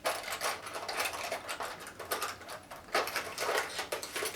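Rapid, irregular clattering and rattling of small hard objects being rummaged through, with louder flurries about a second in and again around three seconds in.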